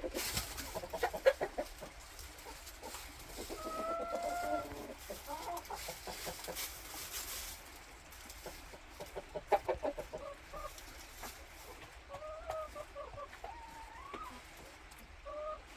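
Chickens clucking: a run of rapid clucks about a second in, drawn-out calls through the middle, and another quick run near ten seconds.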